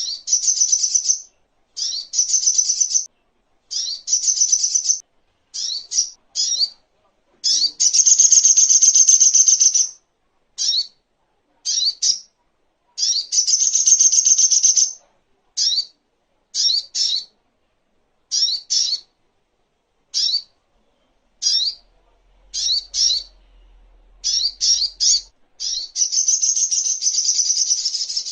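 Brown-throated sunbird (sogok ontong) singing: quick bursts of short, sharp, high chirps, broken by a few longer trilled phrases lasting about two seconds each.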